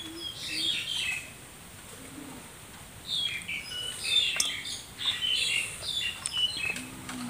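Small birds chirping and calling repeatedly, with a quieter lull about a second in and a few sharp clicks in the second half.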